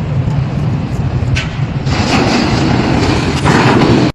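Building collapsing: a loud low rumble with a rushing noise of falling debris that swells about two seconds in and again near the end, then cuts off abruptly.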